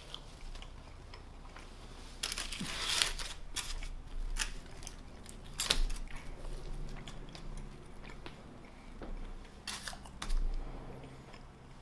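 Close-miked eating sounds: chewing a mouthful of cheesesteak, broken by short crinkles and scrapes as a plastic fork digs fries out of an aluminium-foil tray.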